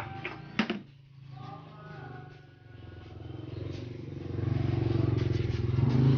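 Motorcycle engine running, growing louder about four seconds in.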